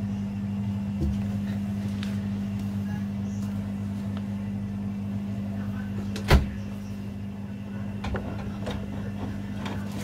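Washing machines running mid-cycle: a steady low hum, with one loud knock a little past six seconds and a few lighter clicks.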